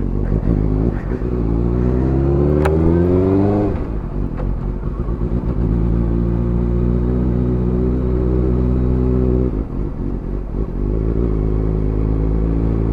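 Suzuki GSX-R motorcycle engine accelerating under way. The pitch climbs for about three and a half seconds, drops sharply at a gear change, then holds steady at cruising revs, with a short dip about ten seconds in before it picks up again.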